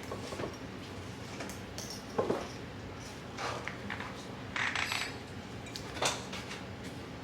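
Wine bottle being opened by hand: a handful of short, scattered clicks and scrapes of metal against glass, the sharpest about six seconds in.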